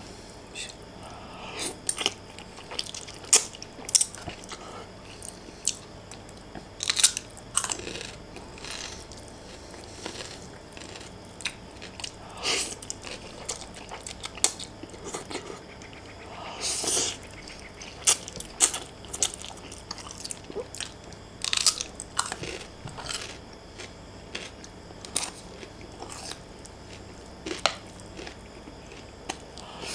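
Close-up eating sounds: a man chewing fried instant noodles and slurping them up from chopsticks, with irregular wet clicks and smacks of the mouth.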